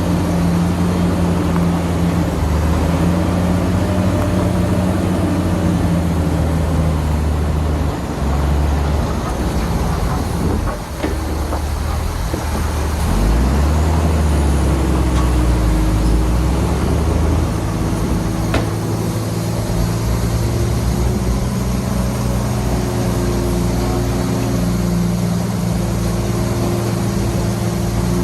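Heavy diesel engines of a bulldozer and dump trucks running steadily. The engine note dips briefly about ten seconds in, then rises and holds higher for a few seconds as the engine revs under load.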